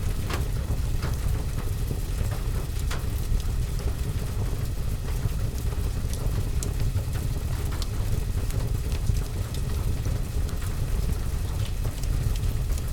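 Rain falling steadily on the roof and window, heard from indoors as a constant low rumble and hiss, with occasional sharp crackles and pops from a wood fire burning in the fireplace.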